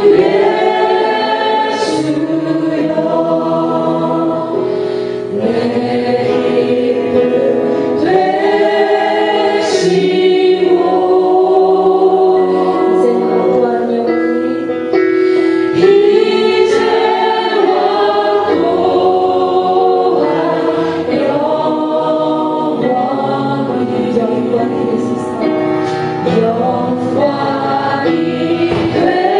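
A group of voices singing a Christian worship song together, in long held notes phrase after phrase.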